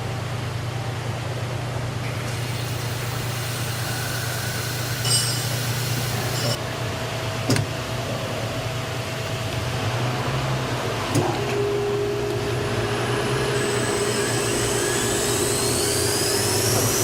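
High-speed automatic key milling machine running with a steady hum and a few sharp clicks. Near the end its motor spins up with a rising whine.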